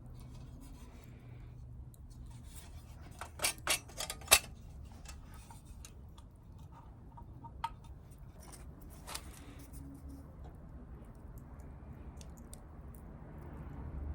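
Sharp clicks of small hard objects, a quick run of four or five about three to four seconds in, then two single clicks a few seconds apart, over a low steady background.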